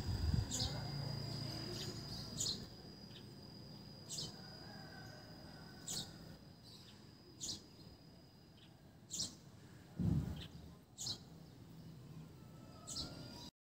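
A small bird chirping, short high calls repeating about once every two seconds, over a faint steady high-pitched tone that stops about nine seconds in. A low bump from the pot being handled comes about ten seconds in.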